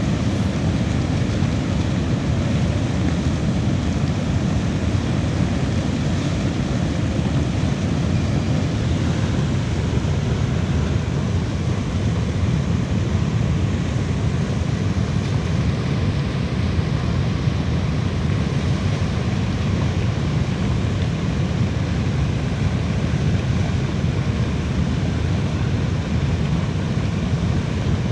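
A swollen river in flood rushing, a loud steady noise of water with no breaks.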